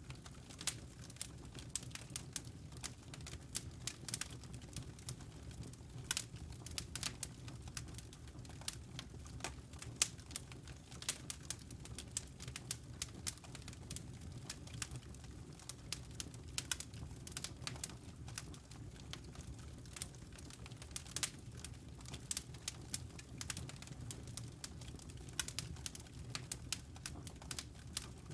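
Wood fire crackling, with frequent irregular sharp pops and snaps over a low steady rumble.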